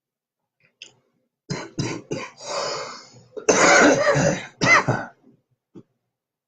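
A man coughing: a string of short coughs that builds into a harder, longer coughing burst, with one more cough after it.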